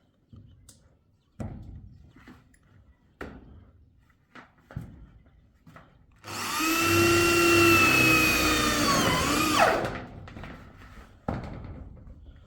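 A few separate knocks, then a small electric motor, like a hand power tool's, runs loud and steady for about three and a half seconds before spinning down with a falling whine and stopping.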